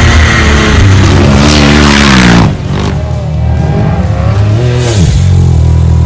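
Off-road vehicle engine revving, its pitch rising and falling again and again, with a sudden drop in loudness about two and a half seconds in.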